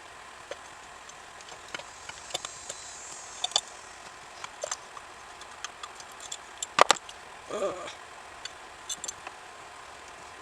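Small metal carburetor parts clicking and tapping as they are handled on a bench, with a louder double click about seven seconds in.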